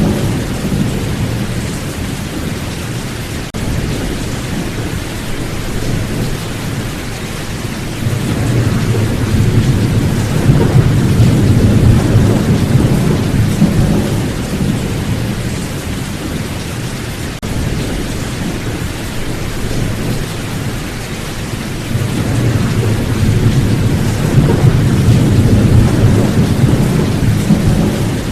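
Heavy rain falling steadily during a thunderstorm, with deep rolling thunder that swells up twice and fades.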